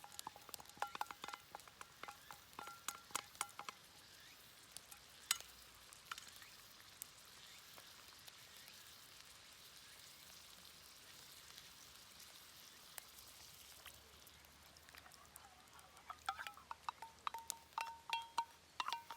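Food sizzling quietly in a pan over a campfire, with quick clinks of a metal utensil against the cookware in the first few seconds and again near the end, each with a short metallic ring.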